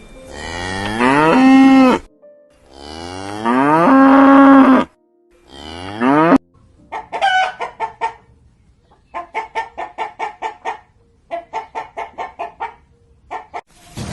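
A cow mooing: two long calls that rise in pitch and then hold, then a shorter one. After that, chickens clucking in quick runs of short pulses.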